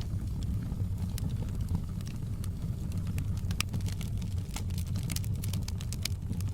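Wood fire crackling in a fireplace: irregular sharp pops and snaps, coming more thickly in the second half, over a steady low rumble.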